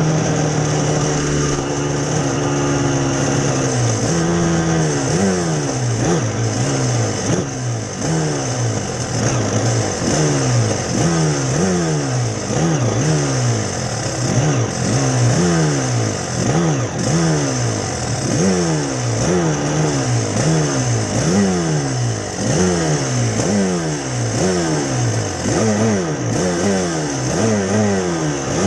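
Yamaha TZ250 two-stroke twin race engine held at steady revs for about four seconds at the race start, then launched and repeatedly revved up in rising sweeps, each cut short by an upshift or a lift of the throttle.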